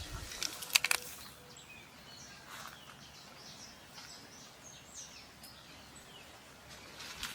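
Small birds chirping: short, high, gliding calls scattered through, with a few sharp clicks just under a second in.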